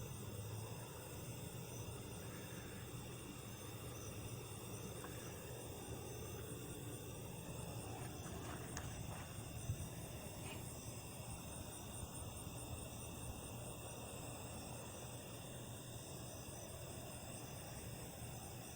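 Insects, likely crickets, chirring steadily at several high pitches, with one brief knock about ten seconds in.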